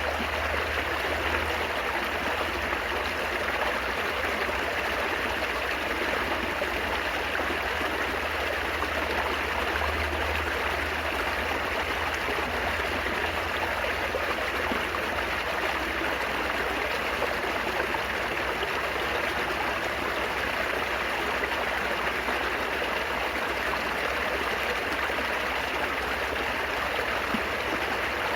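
Babbling, trickling water flowing steadily without pause, with a steady low rumble underneath.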